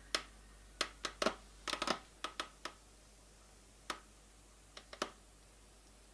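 A series of sharp, irregular clicks and knocks from hands handling coffee-making equipment, bunched in the first three seconds, with a few more around four and five seconds in.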